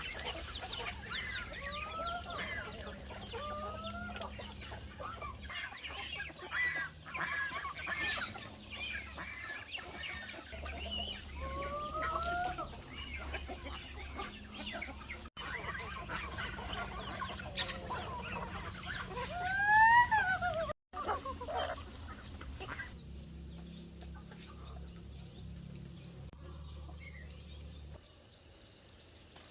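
Chickens clucking and calling, with several short rising squawks and a louder rising-then-falling call about twenty seconds in. The sound breaks off briefly twice, and the last few seconds are quieter.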